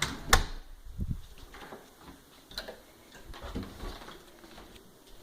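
Footsteps going down a flight of indoor stairs: soft, irregular thuds about every half second to a second, with a sharp click just after the start.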